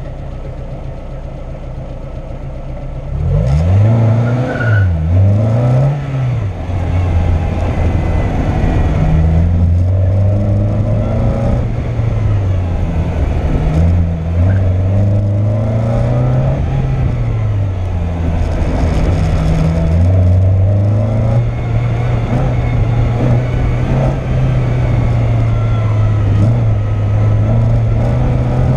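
Car engine idling, then launching hard about three seconds in and revving up and down repeatedly as the car is driven hard through a gymkhana cone course, with throttle lifts and braking for the turns.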